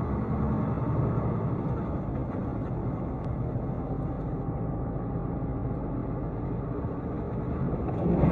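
Vehicle engine and road noise, a steady low rumble that gets louder near the end.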